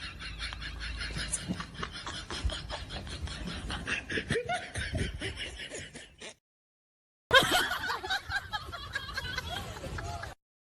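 Laughter sound effects: a clip of quick, rhythmic snickering that cuts off about six seconds in, then after a second of silence a second clip that starts sharply.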